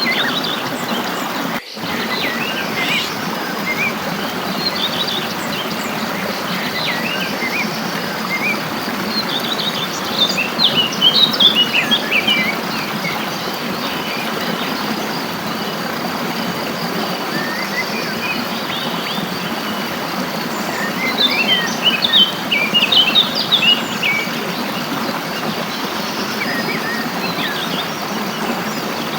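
Small songbirds chirping and twittering in quick high bursts, busiest twice, about a third and three-quarters of the way through, over the steady rush of flowing stream water. A brief dropout in the sound comes just under two seconds in.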